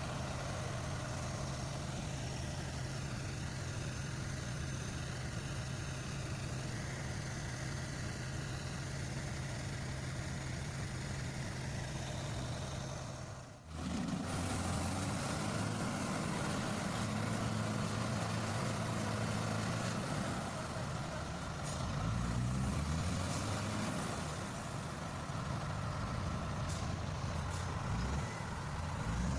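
Heavy vehicle engines running steadily. About halfway through, the sound changes abruptly to a louder engine whose pitch rises and falls as it is worked under load, as during the tractor's pull on the stuck cementing truck.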